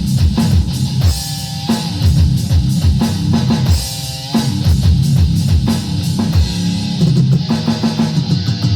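Rock band music: an electric guitar riff over a drum kit with rapid, dense bass-drum hits.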